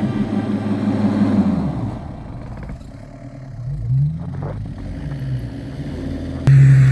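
SUV engine revving hard under load while pulling a stuck vehicle through deep snow on a tow strap. The revs rise and fall a few times, then jump up sharply near the end and hold high.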